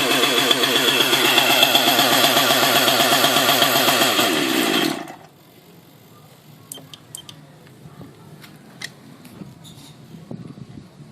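Nitro glow engine of a T-Rex 700 Nitro RC helicopter running at a fast idle while warming up, short of clutch engagement. About five seconds in its pitch sags and it stops, leaving a few faint clicks.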